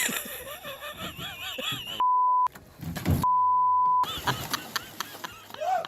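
Two censor bleeps, a steady high tone about half a second long and then one nearly a second long, each blanking out the audio while it sounds, between bursts of excited shouting.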